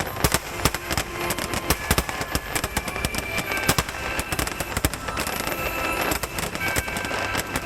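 Aerial fireworks shells bursting in rapid, irregular succession, a dense barrage of sharp reports over continuous crackle and rumble.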